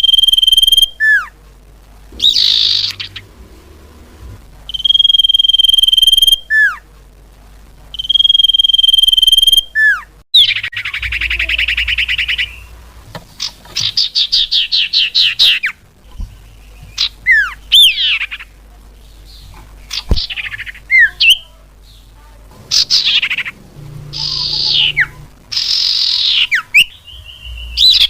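Common iora (cipoh/sirtu) calls played as a bird-lure recording. Three long, steady whistled notes each end in a quick falling note. They are followed by rapid chattering trills and then a series of short downward-slurred whistles.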